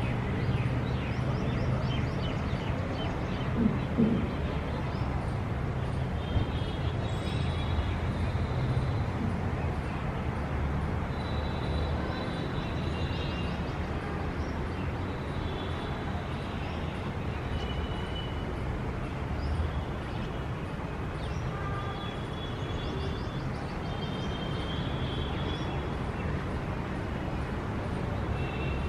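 Outdoor city ambience: a steady low rumble of distant traffic, with small birds chirping now and then above it. A couple of brief louder knocks come about four seconds in.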